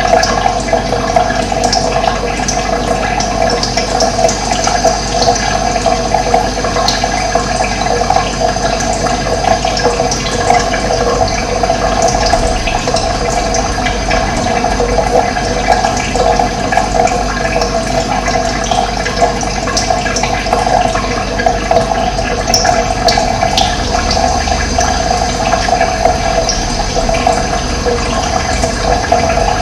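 Running water rushing steadily, a dense, even flow sound, with faint bird chirps here and there.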